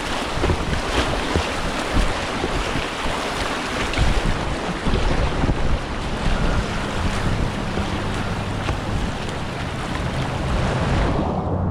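River water rushing and splashing around a kayak, with wind buffeting the microphone. Near the end the rushing drops away, leaving a low steady hum.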